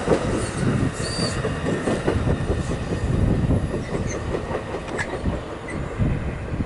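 NJ Transit commuter train of bilevel coaches pulling away, its wheels clattering over the rails in an irregular clickety-clack that slowly fades as it recedes. A brief high wheel squeal comes about a second in.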